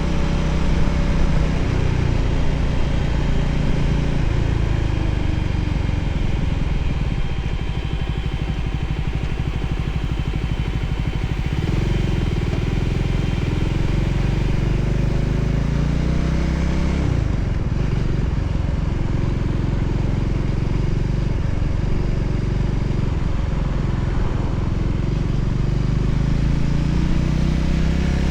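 Voge 300ACX single-cylinder motorcycle engine running under way, its note falling and rising several times with the throttle, with a brief break in the note about two-thirds of the way in.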